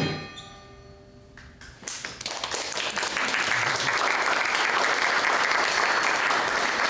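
The last held chord of an ensemble piece dies away over about a second and a half. Audience applause then starts about two seconds in and swells into steady clapping.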